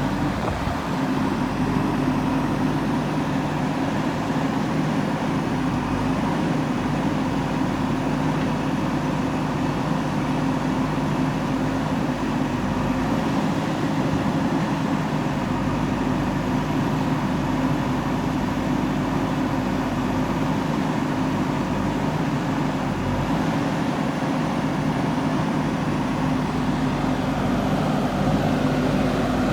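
JCB 3DX backhoe loader's diesel engine running steadily under work, a constant low drone.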